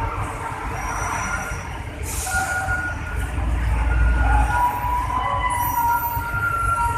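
Hino truck's engine rumbling low, getting louder midway, with thin metallic squeals and a short hiss of air about two seconds in.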